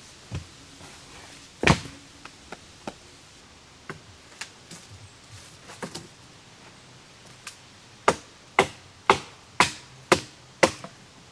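Firewood being chopped: one sharp strike about two seconds in, a few light knocks, then six quick strikes about half a second apart near the end.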